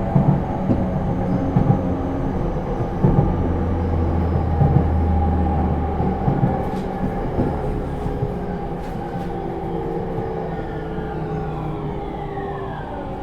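Onboard running sound of a JR East E231 series train with Hitachi IGBT inverter drive: wheels on rail and a steady drone, with a few sharp knocks in the first five seconds. Near the end the motor and inverter whine slides down in pitch.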